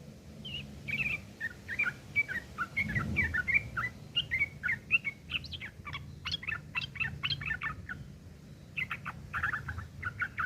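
Yellow-vented bulbul (trucuk) giving rough, chattering calls in quick runs of short chirps. The notes come faster in the middle, pause briefly, then start again near the end: the agitated 'fighting' chatter used to lure other trucuk into answering.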